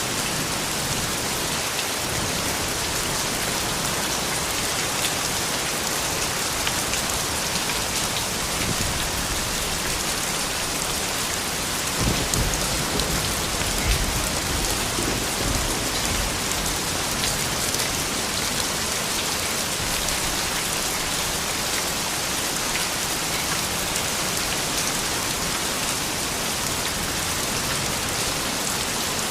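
Steady rain falling, a dense even hiss of drops. A brief low rumble rises under it about twelve seconds in and fades a few seconds later.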